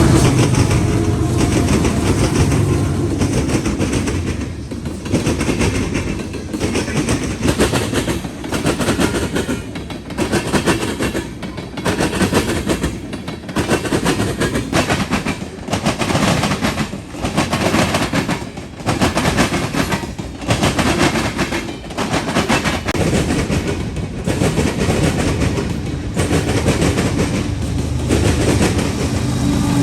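Freight train passing: a diesel locomotive's engine at first, then a long string of freight cars rolling by, their wheels clattering over the track joints in a steady clickety-clack with a regular rise and fall as each car passes.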